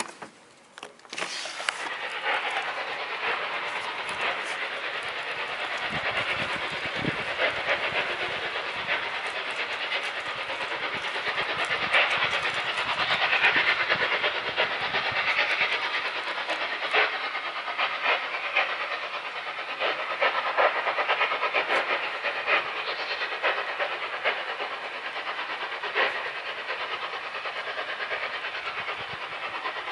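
Loud, steady hissing noise with scattered crackles, starting abruptly about a second in, of the kind recorded as an unexplained noise in the sky.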